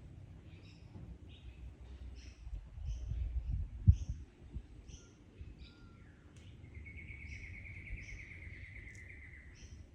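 Birds in the Australian bush calling with many short, repeated chirps, and one bird giving a steady trill for about three seconds in the second half. Underneath is a low rumble of wind, which swells before a sharp low thump about four seconds in.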